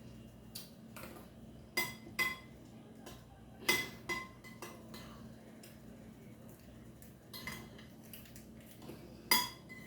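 Metal eating utensil clinking and scraping against a dish while eating, about ten irregular clinks, several with a brief ringing tone, the loudest near the end.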